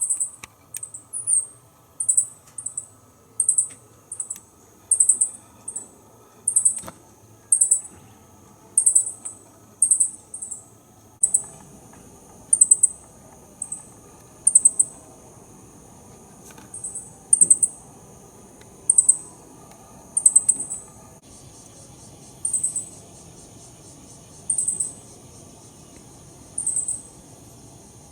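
A small bird chirping: short, very high-pitched chirps, sometimes in pairs, repeated about once or twice a second and spacing out in the last third.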